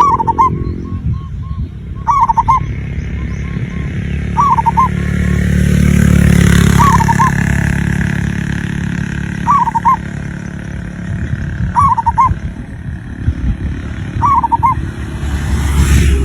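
Zebra dove (perkutut) cooing: a short phrase of several quick coos, repeated about every two seconds, seven times. A low rumble swells and fades beneath it around the middle and again near the end.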